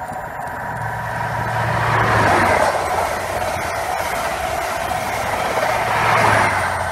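A High Speed Train with Class 43 diesel power cars passing at speed. The leading power car's engine drone swells and peaks about two seconds in, the coaches follow with a steady rush of wheels on rail, and the rear power car's engine peaks again about six seconds in.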